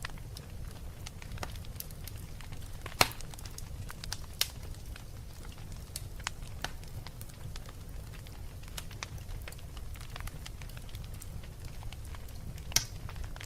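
Wood fire crackling in a fireplace: a steady low rumble under frequent small crackles, with three sharper pops standing out, about three seconds in, a second or so later, and near the end.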